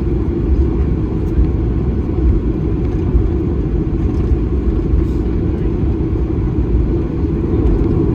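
Steady low rumble inside the cabin of a Boeing 737-800, from its CFM56 engines and airflow, heard at a window seat; it holds level throughout with no spool-up or change.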